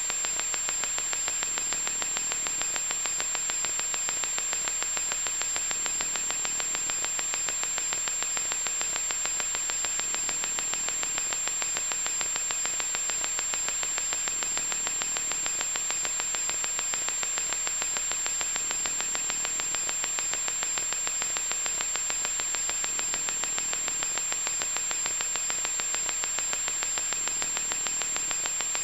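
Loud static noise: a steady, unbroken hiss, strongest in the upper range, with a thin high tone held steady on top.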